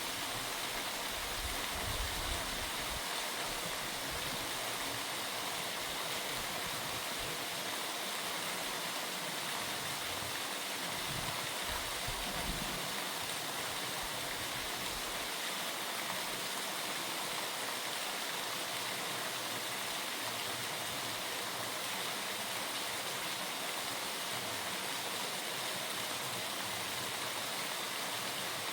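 Steady rush of falling water from a waterfall, an even hiss with no change in level. A couple of brief low rumbles come near the start and again about eleven seconds in.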